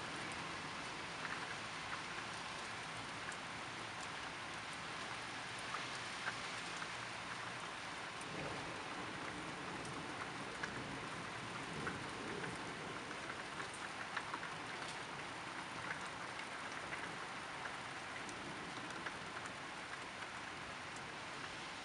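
Steady rain falling on a clay-tiled roof, with many separate drops ticking close by.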